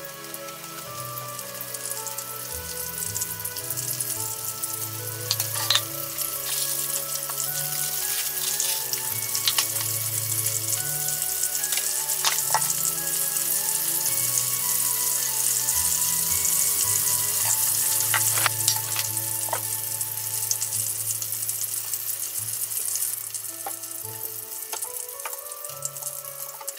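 Breaded chicken tenderloin strips deep-frying in a shallow pan of hot oil: a steady, dense sizzle that grows louder toward the middle and eases near the end, with a few sharp clicks as the chopsticks turn the pieces in the pan.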